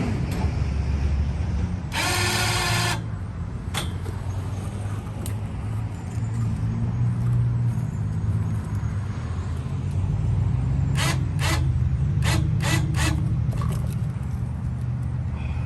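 An electric winch motor runs for about a second, then is jogged in five or six short bursts later on, inching a heavy stone on its cable. Under it an engine idles steadily.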